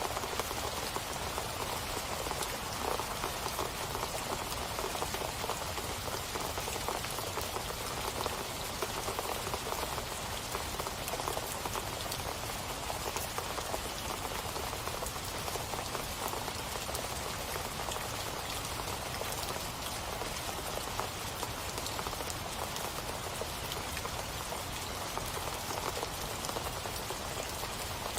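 Steady rain falling on a surface, a dense even patter of drops with no break or change.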